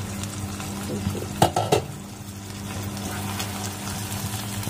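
Marinated chicken pieces sizzling in oil in a nonstick pan while a silicone spatula stirs and turns them. Two sharp knocks of the spatula against the pan come about a second and a half in, over a steady low hum.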